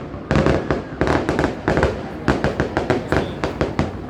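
Fireworks going off in rapid succession: a dense barrage of sharp bangs and crackles, several a second, with no pause.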